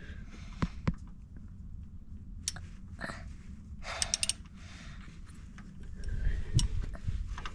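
Scattered metallic clicks and scrapes, with a quick run of clicks about four seconds in and a couple of low knocks near the end: a wrench being fitted to and worked on the oil drain plug under a car.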